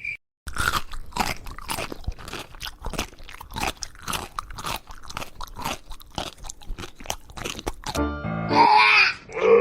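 Crunchy chewing, about two bites a second, as of an animal eating something crisp. Near the end it gives way to a pitched, voice-like sound.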